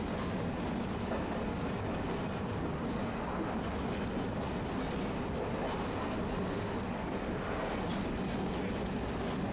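Tosaden streetcar running, heard from inside the car: a steady rumble of its motors and wheels on the rails.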